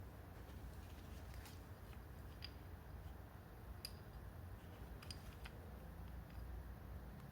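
Faint low hum with a few scattered light clicks and taps, like small metal parts or tools being handled.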